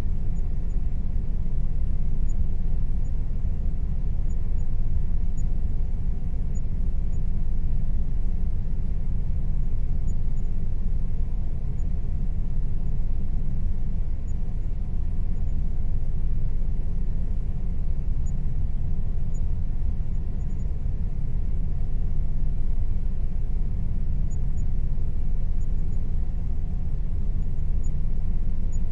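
Air conditioner running with an unchanging low rumble and a faint steady tone above it.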